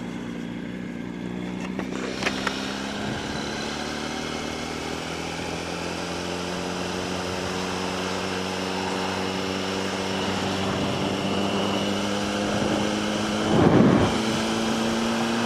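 Yamaha R1 inline-four sport-bike engine heard from the rider's seat, pulling steadily under light throttle, its note rising slowly as the bike gathers speed. A brief whoosh of wind or traffic comes near the end.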